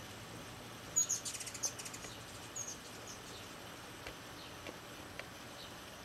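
A wild bird's high, quick chirping with a fast trill about a second in, then one more short chirp a moment later, over a steady faint hiss; a few faint clicks follow.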